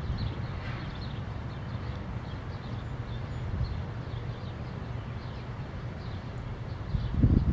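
Low, steady rumble of a freight train of tank cars rolling away, with faint, repeated bird chirps. About seven seconds in, loud, irregular low buffeting cuts in over it.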